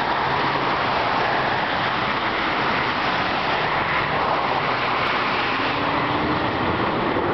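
Steady rush of highway traffic: a continuous hiss of tyres and engines from passing vehicles.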